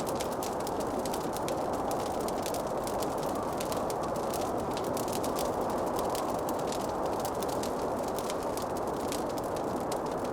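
Wood fire crackling: many small, irregular crackles and pops over a steady rushing noise.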